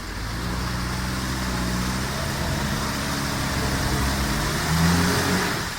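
An off-road 4x4's engine running under load, with a steady drone that builds to its loudest about five seconds in, then eases off sharply just before the end.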